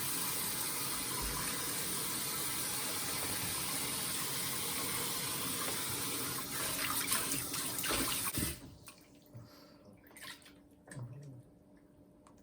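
Water running steadily, growing louder and splashier for the last couple of seconds before it cuts off sharply about eight and a half seconds in. After that, a few small splashes and drips.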